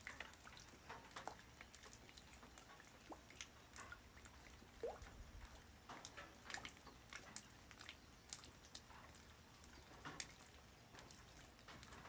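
Light rain falling on the ground: scattered drops tapping irregularly over a faint steady hiss, with one short rising plink about five seconds in.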